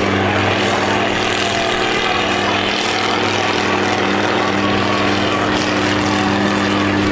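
Diesel engines of derby combine harvesters running steadily, a constant engine drone under a rough, noisy haze.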